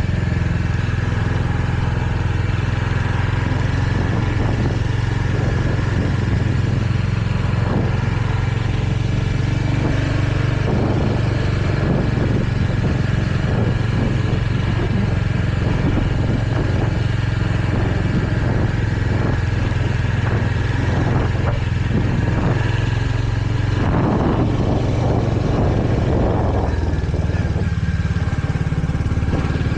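Royal Enfield Hunter 350's single-cylinder engine running steadily while riding, its note shifting about 27 seconds in, with some brief clatter a few seconds before that.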